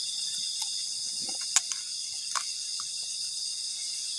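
Steady high-pitched insect chorus, with a sharp click about one and a half seconds in and a few fainter ticks.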